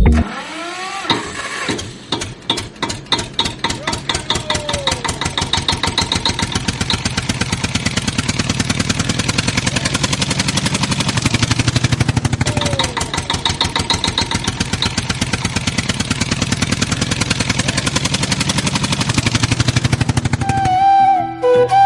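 Tractor engine starting about a second in, then running with a rapid, steady chugging.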